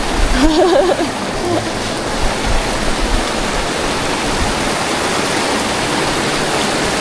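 Shallow, fast glacial meltwater stream rushing steadily. A brief voice sounds in the first second or so.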